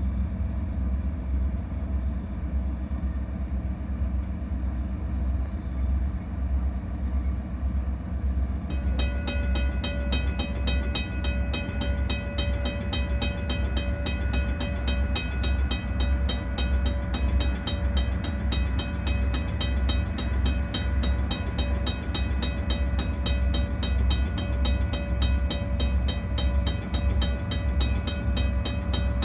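EMD SD40-2 diesel locomotives running with a steady heavy rumble, their 16-cylinder two-stroke engines working. About nine seconds in a bell starts ringing with fast, even strokes and keeps on.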